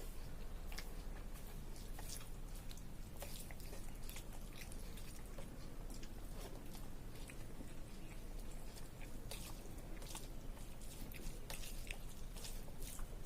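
A person chewing a mouthful of rice and runny potato curry, with wet mouth clicks and smacks at irregular intervals over a steady low hum.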